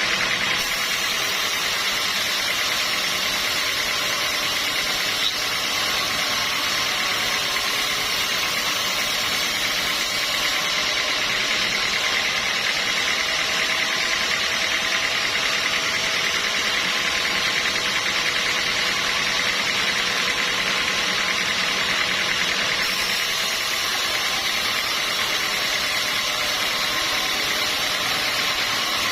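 Sawmill machinery running steadily, a constant mechanical drone with a steady high whine.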